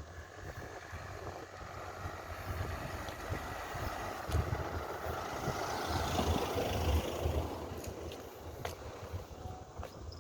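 A motor vehicle passing by, growing louder to a peak about six seconds in and then fading away.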